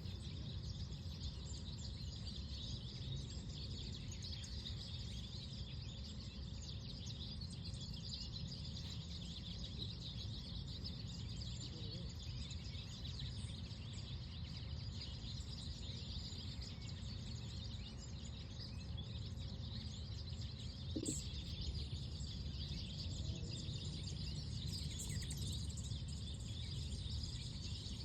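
Outdoor park ambience: a steady low rumble of breeze and distant background noise, with faint birds chirping over it.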